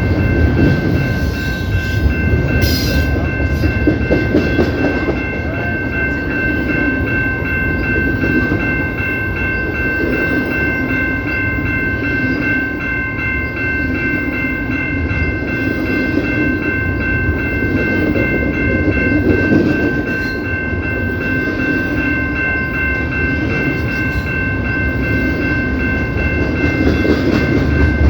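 CPKC freight train rolling past, a continuous rumble and rattle of wheels and cars, with steady high-pitched tones held throughout.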